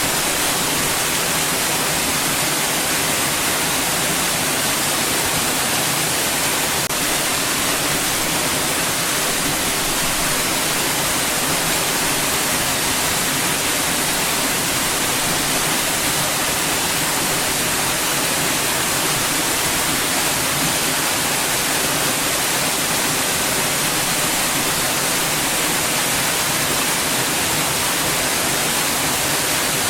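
White noise: a steady, even hiss with most of its strength in the high end, unchanging throughout.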